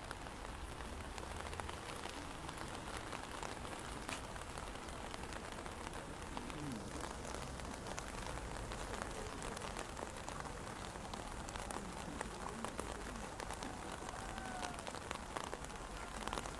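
Steady light rain falling, with many small drops ticking on umbrellas overhead and on the wet pavement.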